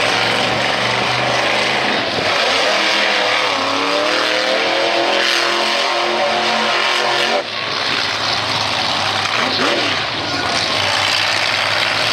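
Monster truck engine revving loud, its pitch climbing for several seconds and then dropping off abruptly about seven seconds in before it picks up again.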